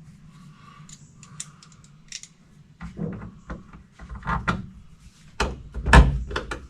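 Plastic interior trim pieces being handled and pushed into place inside a pickup cab: scattered clicks and knocks, with the loudest thump about six seconds in.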